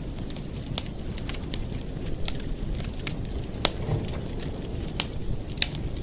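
Campfire burning with a steady low rumble and frequent sharp, irregular crackles and pops of the burning wood.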